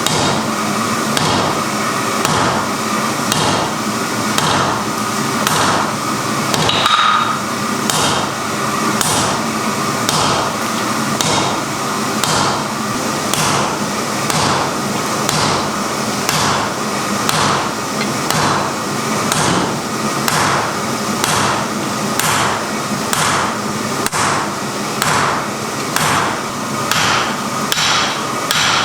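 Hammer blows on iron in a steady rhythm of about two strikes a second, over a steady hiss.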